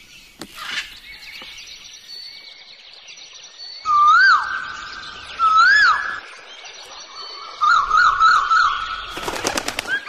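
Pet birds calling: a chorus of chirps and whistles, with two loud whistles that rise and fall about four and five and a half seconds in, a quick warbling series near the end, and a short burst of rapid fluttering clicks just before it stops.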